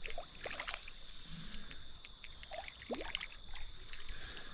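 Light water splashing and trickling in a creek, with a steady high-pitched insect drone throughout.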